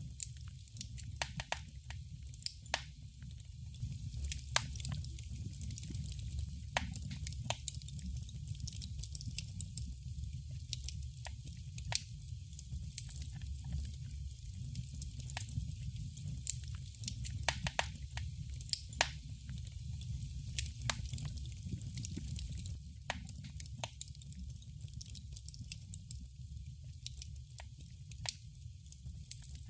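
Wood fire crackling: irregular sharp pops and snaps, several a second at times, over a steady low rumble of the burning fire.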